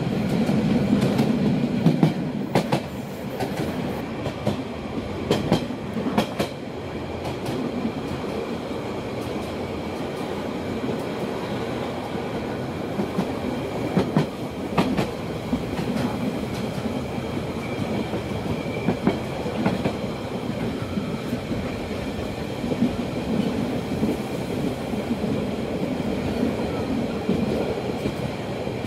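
Rhaetian Railway metre-gauge train running, heard from an open carriage: a steady rumble of wheels on rail with a faint high whine over it. Sharp clacks stand out in pairs, about two seconds in, around six seconds and again around fourteen seconds.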